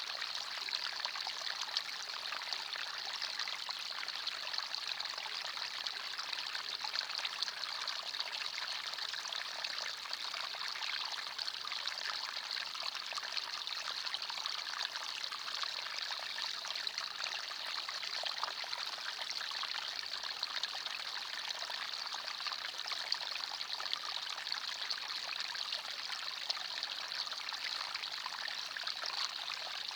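Small forest stream flowing over stones, a steady babbling and trickling of water with no change in level.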